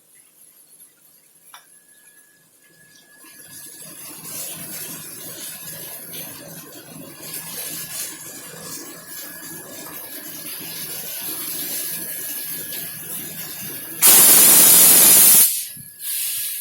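Rail-yard noise building up for several seconds. Then, about fourteen seconds in, a loud hiss of released compressed air, typical of train air brakes, starts and stops abruptly after about a second and a half. A shorter hiss follows near the end.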